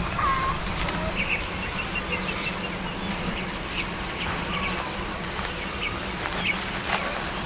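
Small birds chirping in short, scattered calls over steady outdoor background noise, with a low steady hum underneath.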